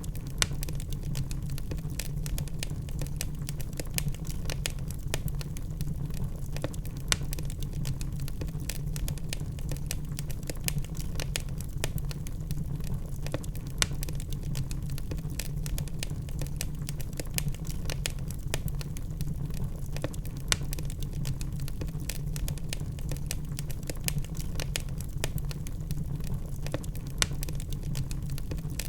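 Logs burning in a fireplace: dense, irregular crackling with a few louder pops, over a steady low rumble.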